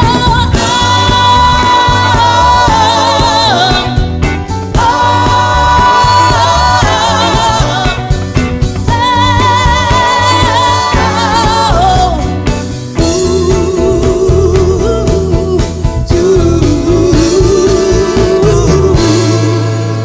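Soul band music with wordless singing: a high voice holds long, wavering notes, and about two-thirds of the way through a lower voice takes over the line.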